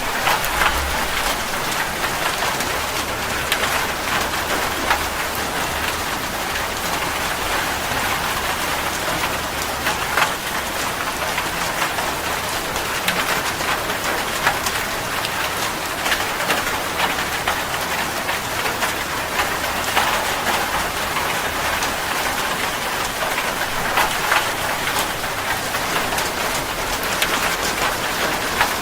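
Steady rain falling, an even hiss dotted with frequent sharp ticks of individual drops striking close by.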